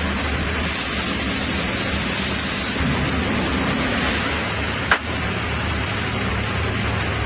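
Chainsaw mill running steadily through a log, a constant noisy din with a low engine hum under it; a brighter hiss rises for about two seconds early on, and a single sharp click comes about five seconds in.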